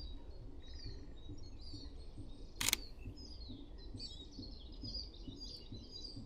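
Small birds chirping and twittering throughout, with one sharp camera shutter click about two and a half seconds in from a Sony A6700 mirrorless camera.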